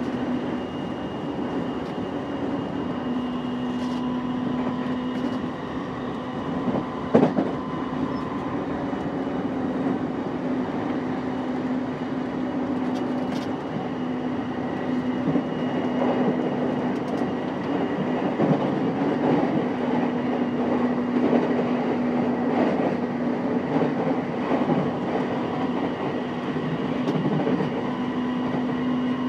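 JR East E233 series 5000 subseries electric train running at speed, heard from inside the car: a continuous rumble of wheels on track with a steady hum, and a sharp knock about seven seconds in.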